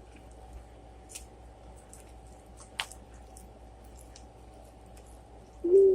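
Salad being tossed and mixed in a bowl, with faint soft squishes and a few light clicks of the utensils. Near the end comes a louder short pitched sound, like a hum or coo, lasting under a second.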